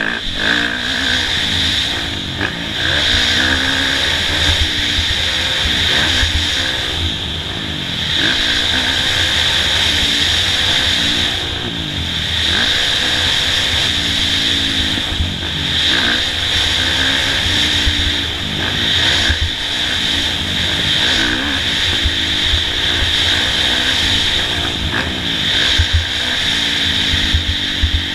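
Kawasaki KX450F motocross bike's single-cylinder four-stroke engine, ridden hard: it revs up and falls off again over and over, every second or two.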